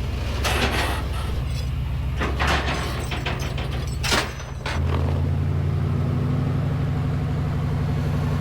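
Truck engine running steadily, with a few short knocks or rattles in the first half. About halfway through the engine note changes pitch and becomes louder and steadier.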